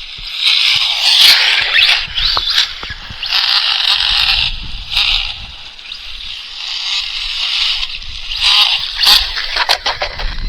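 Radio-controlled Associated SC10 short-course truck with a TP Power electric motor and buggy slick tyres, driven in bursts of throttle: the motor whines and the slicks spin and scrub on the road. The loudest bursts come about a second in, around three and a half seconds in, and near the end.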